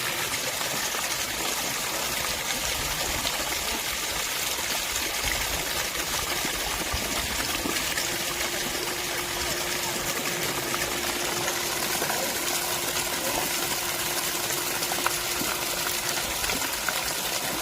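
Flowing water rushing steadily, with no breaks. A faint steady hum joins it from about halfway through.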